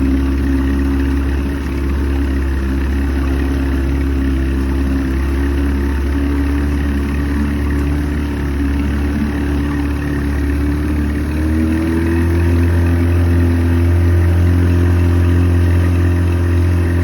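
Evinrude two-stroke outboard motor running hard under way, near but not quite at full throttle. About 12 seconds in, its pitch rises a little and it gets louder.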